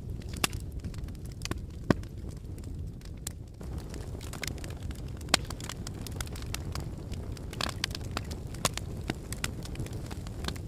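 Wood fire burning in a fireplace: a steady low rumble of flames with scattered sharp crackles and pops from the burning logs, a few louder pops standing out.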